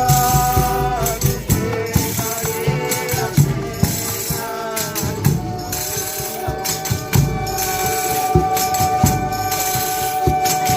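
Folia de Reis folk music: tambourine jingles and rattling percussion with low drum hits, under pitched melodic lines that settle into one long held note in the second half.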